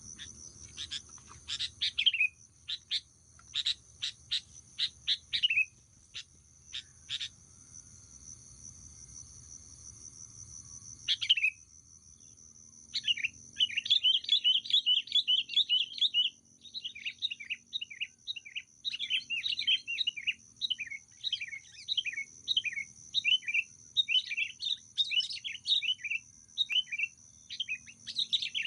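Sooty-headed bulbuls calling: a run of sharp, falling calls in the first seven seconds, another around the middle, then a long stretch of rapid, excited chattering. A steady high-pitched insect drone runs underneath.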